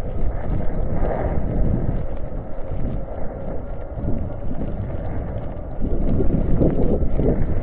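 Steady wind rumble on the microphone from riding a fat-tire electric bike through snow, getting a little louder near the end.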